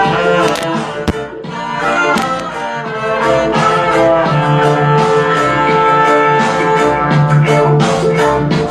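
Loud recorded music with brass horns and drums, played through a car audio speaker system.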